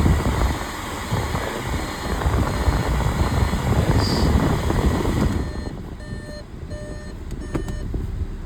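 Car air-conditioning blower running hard with the engine idling. About five seconds in, the blower noise drops away and a repeating electronic beep begins.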